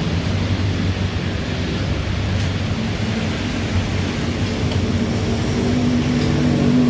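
Kawasaki D-Tracker 250's single-cylinder four-stroke engine idling steadily through an aftermarket Mivv exhaust, growing a little louder near the end. The header-pipe joint is not fully seated and leaks.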